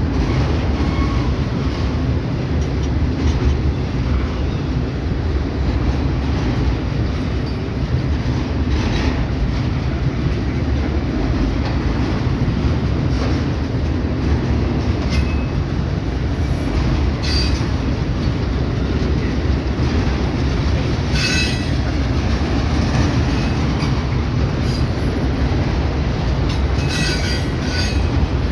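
Freight train cars rolling past with a steady low rumble of wheels on rail. Short high-pitched wheel squeals come and go several times.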